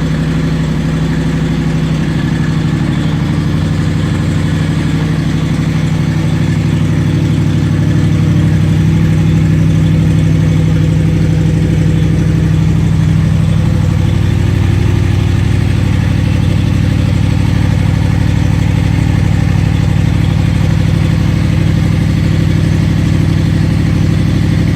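Honda VFR800 V4 engine idling steadily through a Coffman aftermarket exhaust during a winter warm-up, getting slightly louder about eight seconds in.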